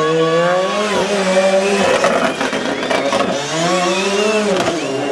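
Hillclimb race car engine at high revs, the pitch holding and rising, cutting out about two seconds in as the driver lifts or shifts, then climbing again and dropping away near the end.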